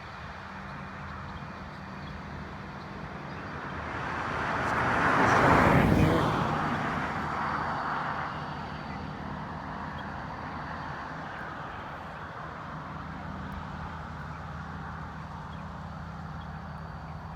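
A road vehicle passing close by, swelling up to its loudest about six seconds in and then fading away, over a steady low engine drone.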